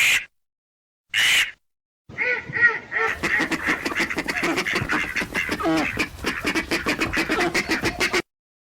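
Two short harsh calls, then a flock of ducks quacking busily over one another that cuts off suddenly near the end.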